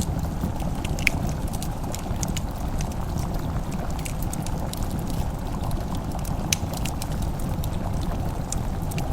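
Wood fire crackling in a fireplace: scattered sharp pops and snaps over a steady low rumble, with a louder pop about a second in and another past the middle.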